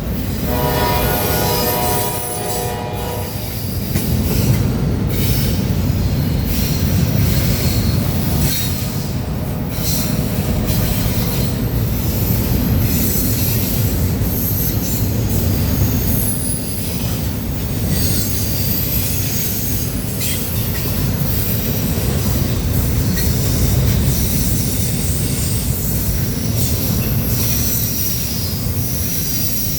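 Freight train rolling past close by: a steady low rumble of cars and wheels, with scattered clicks of wheels over rail joints. A brief high pitched tone sounds in the first few seconds.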